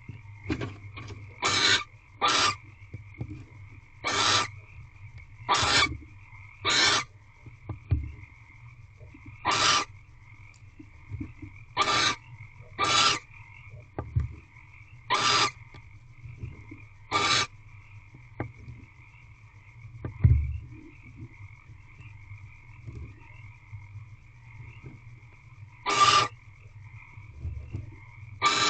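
Barn owl's short hissing calls, about a dozen, at uneven intervals of one to two seconds with a long pause in the second half. Under them runs a steady chorus of frogs, with a few dull low thumps.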